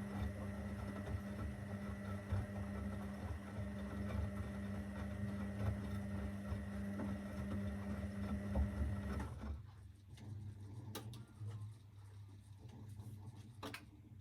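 Zanussi FL984CN washing machine running its wash program: a steady motor hum that cuts off about nine seconds in, leaving a lower rumble and two sharp clicks near the end.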